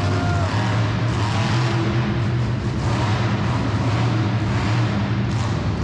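Monster truck engine running steadily with a deep, continuous drone.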